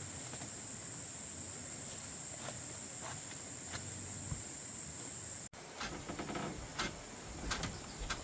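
Insects, crickets by their sound, trilling steadily on one high note. After a sudden break about five and a half seconds in, scattered light clicks and knocks join the trill.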